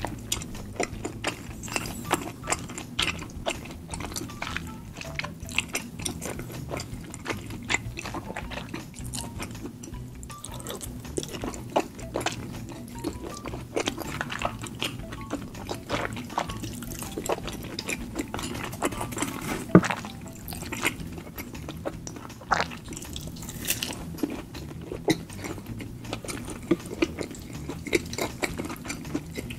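Close-miked wet chewing and lip-smacking of rabokki, chewy tteokbokki rice cakes and ramen noodles in thick spicy sauce, heard as many small mouth clicks, with one louder smack about twenty seconds in. Background music plays underneath.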